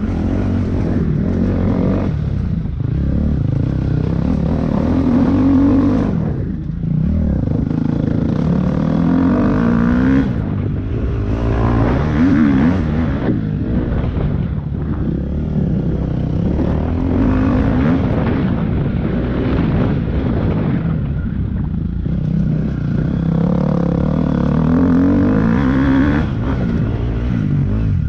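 Off-road motorcycle engine heard close up from the bike, revving up in repeated surges and dropping back as the throttle is opened and closed over rough ground.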